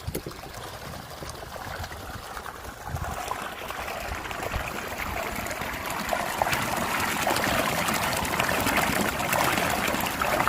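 Water trickling and running, like a small stream, growing steadily louder throughout.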